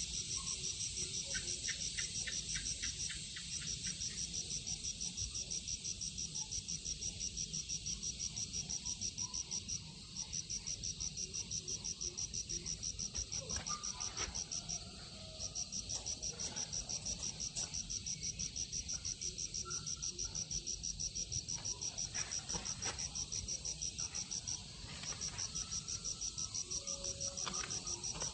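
Insect trilling in a fast, evenly pulsed, high-pitched rhythm that runs on steadily, breaking off briefly a few times.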